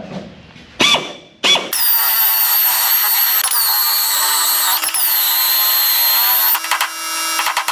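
Drill with a spot weld cutter bit drilling out spot welds in car-body sheet steel. After two short blips comes a loud, high-pitched screech of about five seconds whose pitch dips twice as the cutter bites, breaking into a rattle near the end.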